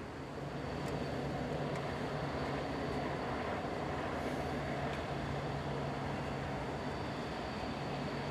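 Steady mechanical drone: a constant low hum under an even noise, with a faint high whine held throughout.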